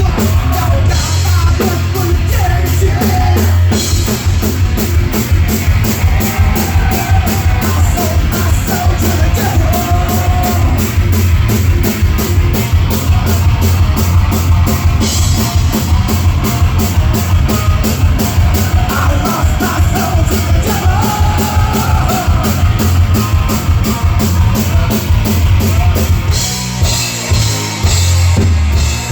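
Live hard rock band playing loudly, with a fast, even drum beat under heavy guitars and bass. Near the end the full sound breaks up into a few short separate hits.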